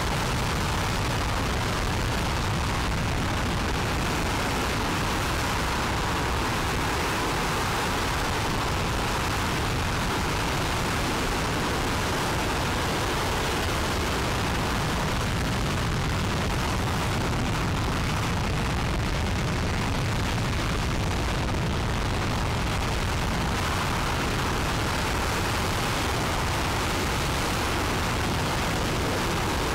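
Aerojet Rocketdyne RS-25 liquid-hydrogen/liquid-oxygen rocket engine, the former Space Shuttle main engine, in a long ground test firing: a loud, continuous, even rushing noise with no breaks.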